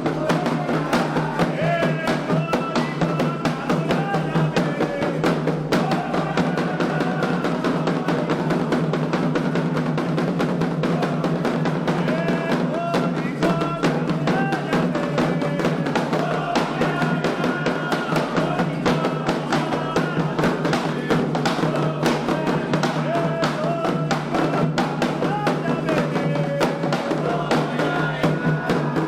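Candomblé xirê music: atabaque hand drums beating a dense, continuous rhythm under voices singing a ritual chant.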